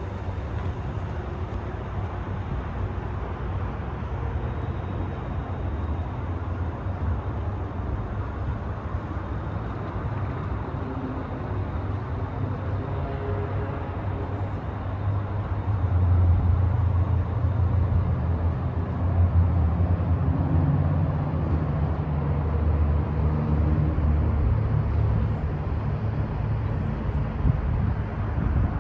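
A vehicle engine running steadily with a low rumble, growing louder from about sixteen seconds in.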